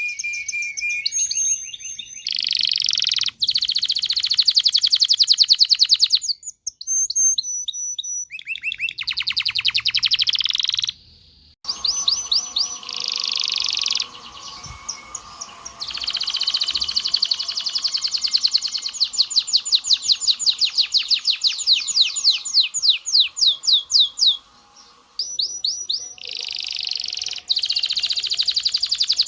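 Domestic canary singing a long song of fast trills, each a rapid run of repeated high notes, with a few whistled notes between them. The song stops abruptly twice, about eleven seconds in and again near twenty-five seconds, then carries on.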